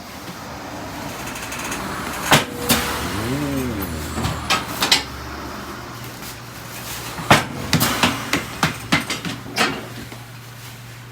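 Irregular sharp knocks and clanks, some close together, over a steady low hum, with a short squeal that rises and falls about three and a half seconds in.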